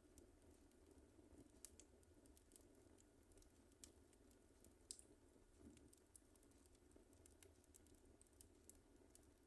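Wood fire crackling faintly: irregular small snaps and pops over a low, steady rumble.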